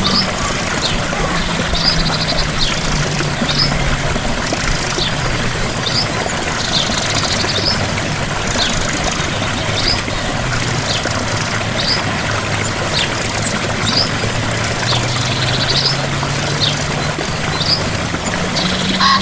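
Steady rush of a small waterfall, with a bird repeating a short high chirp about once a second. A faint low hum slowly sinks and then climbs back up in pitch underneath.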